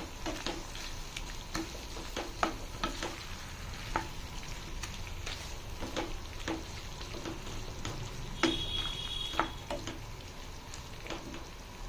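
Chicken curry masala frying in a pan with yogurt just stirred in: a steady sizzle with repeated clicks and scrapes of the spoon against the pan. A brief high-pitched squeal lasts about a second, about two-thirds of the way through.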